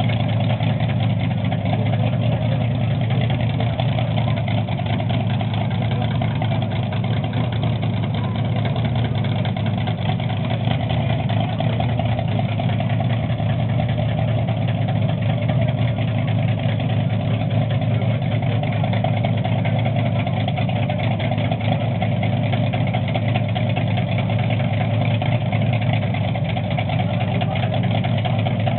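Chevrolet 348 W-series V8 drag engine idling steadily.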